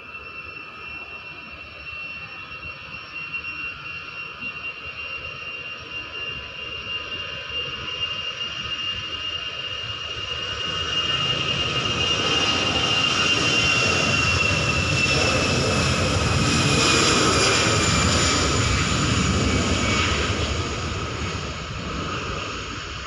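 Airbus A320-214's CFM56-5B turbofans at takeoff thrust: a jet roar with a high whine that grows louder to a peak about two-thirds of the way in. The whine then drops in pitch as the aircraft passes, and the roar begins to fade near the end.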